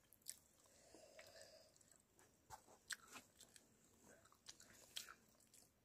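Faint eating sounds: a person chewing a mouthful of rice and egg curry eaten by hand, with scattered soft mouth clicks at irregular intervals.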